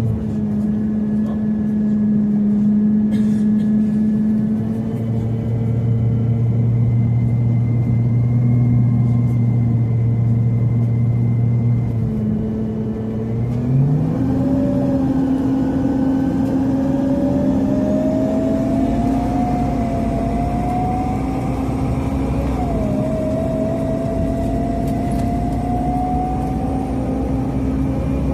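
Inside a Scania CN270UB CNG city bus: the engine runs with a steady low hum, its note shifting about halfway through. After that, a whine slowly rises in pitch over the rest of the ride.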